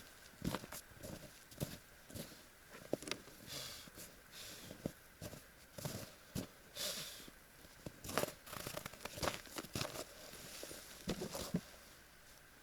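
Irregular light taps and clicks with a few short rustles.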